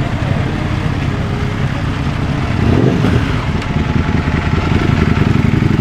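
Superbike engine running, with a brief rev swelling up about three seconds in and the engine getting louder near the end.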